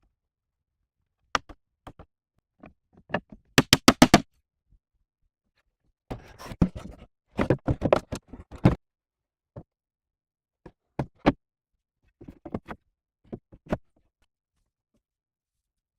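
Irregular sharp knocks and taps. A quick run of about seven knocks comes a little under four seconds in, a denser clattering, scraping stretch follows from about six to nine seconds, and single knocks come now and then after that.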